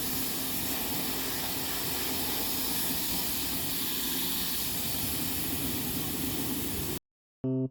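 A steady, even hiss that cuts off suddenly near the end, followed by the first note of piano music.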